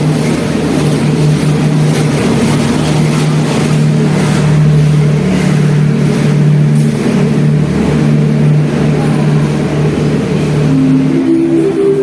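CC201 diesel-electric locomotive running loud and steady as the train goes by. Near the end a series of higher tones starts, stepping up in pitch.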